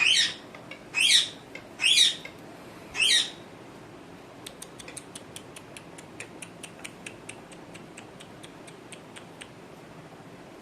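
Pet parrot giving four loud, harsh squawks about a second apart. They are followed by a run of faint, quick clicks, about five a second, that stop near the end.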